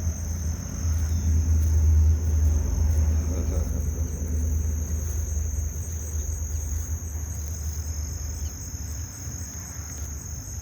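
Steady high-pitched chorus of insects trilling, with a low rumble that is loudest in the first few seconds and fades away during the second half.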